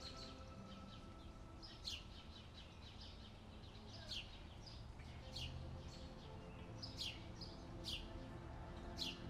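Faint bird chirps, short calls falling in pitch, roughly one a second, over soft sustained background music.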